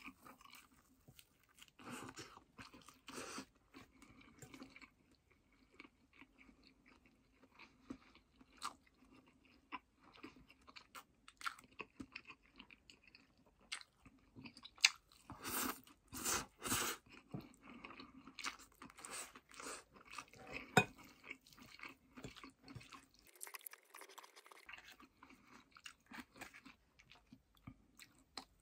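Close-up chewing of stir-fried udon noodles and fried tofu (aburaage): wet, irregular mouth noises with a few sharper clicks in the middle.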